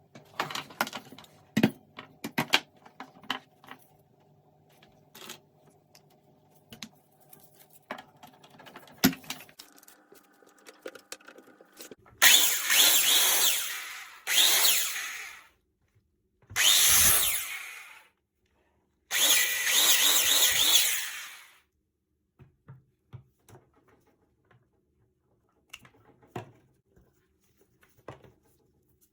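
Handheld power tool run in four short bursts of one to three seconds each, after a stretch of small clicks and handling knocks.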